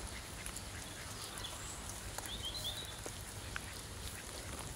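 Rainy outdoor ambience: a steady hiss over a low rumble, with scattered drips and ticks. A bird gives a few short, high chirps about two seconds in.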